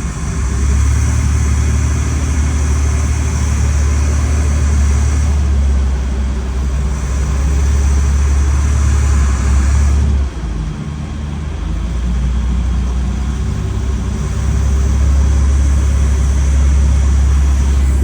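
Carbureted boat motor running steadily under way, with heavy wind rumble on the microphone and a brief dip about ten seconds in. The owner suspects the motor is running lean, sucking air and starved of fuel by stale gasoline.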